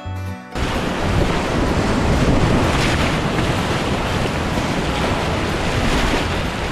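Whitewater rushing loudly around a kayak, heard through an action camera with wind buffeting the microphone: a dense, steady roar that starts abruptly about half a second in.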